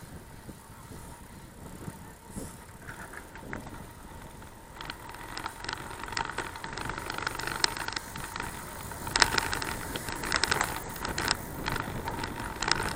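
Bicycle riding noise: a steady low rumble of movement, then from about five seconds in a busy rattling and clicking that grows louder.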